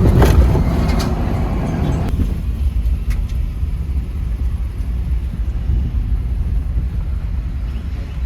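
Car thudding over a pothole, with a jolt right at the start and a second knock about a second later. After that comes a steady low road-and-engine rumble heard inside the moving car.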